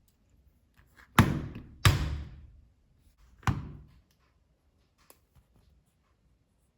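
Three sharp knocks of hard objects against a hard surface, two close together about a second in and a third about a second and a half later, each with a short ringing tail, then a faint click.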